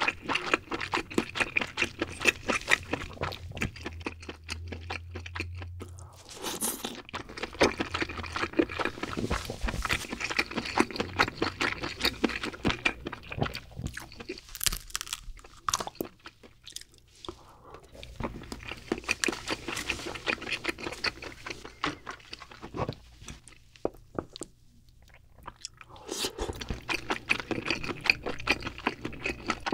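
Close-miked chewing of king crab meat: rapid wet mouth clicks and smacks, with brief quieter pauses between mouthfuls.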